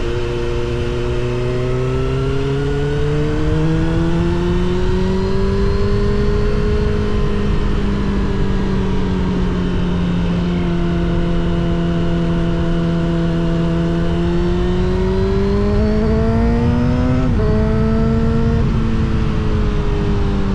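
Suzuki GSX-R750 SRAD inline-four with a Yoshimura R77 exhaust, running under way at fairly steady revs that rise and fall gently, with a sudden short dip in pitch about seventeen seconds in, like a gear change. Wind rumble sits underneath.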